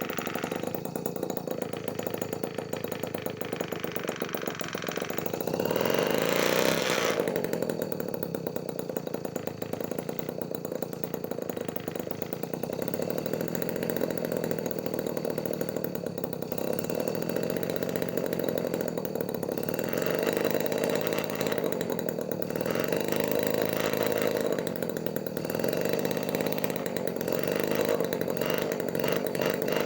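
Homemade mini two-stroke engine, built from a refrigerator compressor, running with a fast buzzing beat. Its speed swings up and down several times, and it is loudest about six seconds in.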